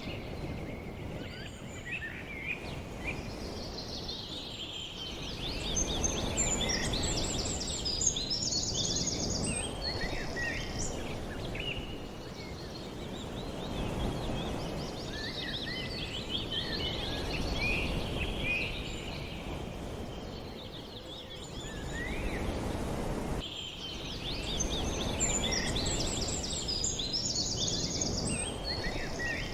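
Many small birds chirping and trilling together over a low rushing noise that slowly swells and fades.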